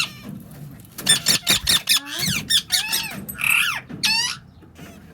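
Newly hatched baby birds peeping: a quick run of high, sharply falling calls for about three seconds, starting about a second in.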